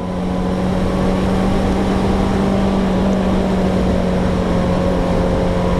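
Suzuki GSR 600's inline-four engine running at a steady, unchanging pitch while riding, over a steady rush of road and wind noise.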